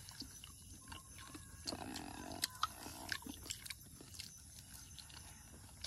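Two people chewing and biting into pieces of chicken in gravy, with wet mouth smacks and small clicks scattered throughout. There is a brief low hum about two seconds in.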